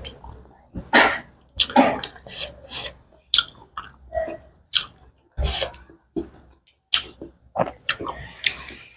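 Close-miked chewing and wet mouth smacks while eating pork curry and rice. The smacks come in a quick, irregular series of short sharp sounds.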